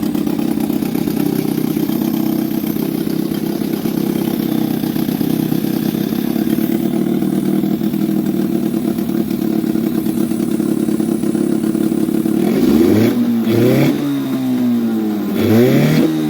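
Suzuki 6 hp outboard motor running at a steady speed, then revved sharply three times near the end, the pitch shooting up and dropping back with each blip of the throttle.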